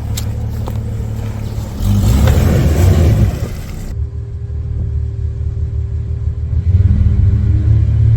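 Off-road vehicle engine rumbling under load on a rough trail, revving up hard twice, about two seconds in and again near the end.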